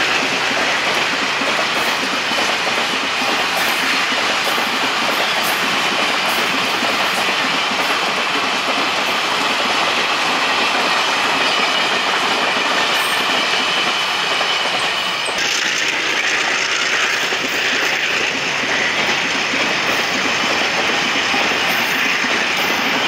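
Train running past on the rails: a loud, steady rolling noise of wheels on track that goes on without a break.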